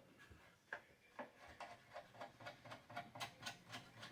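A run of light clicks, about four a second, as the adjustment knob on a belt sander is turned to loosen it.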